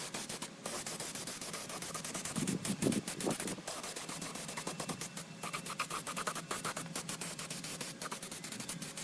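Rapid, irregular scratching and scraping, with a steady low hum underneath.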